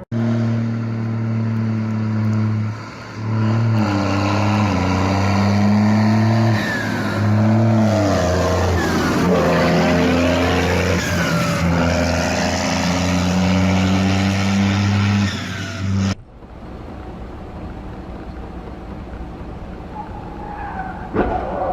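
Loud car engine noise whose pitch shifts up and down, with high squealing glides through the middle, like tyres squealing. It cuts off abruptly about sixteen seconds in to quieter road noise, with a sharp knock near the end.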